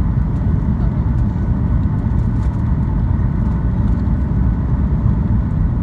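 Steady cabin noise inside a Boeing 737 airliner: a constant deep rumble from the jet engines and airflow, with a faint steady whine over it.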